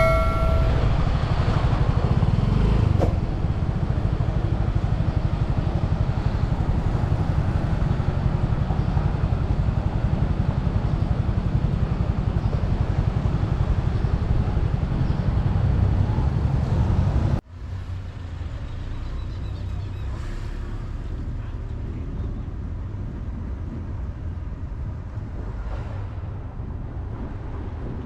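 Motorbike engine running steadily under way, with road and wind noise. About two-thirds of the way through the sound cuts off abruptly and comes back quieter.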